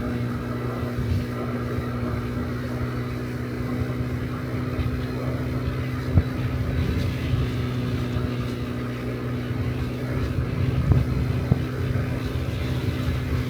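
Honda Dio Cesta AF68 50cc scooter's single-cylinder four-stroke engine running at a steady cruise while riding, with wind rumbling on the microphone.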